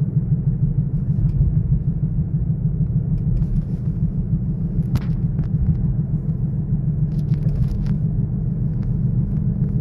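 Kia Sorento 2.0 gasoline engine running with a steady low rumble, with a brief click about five seconds in.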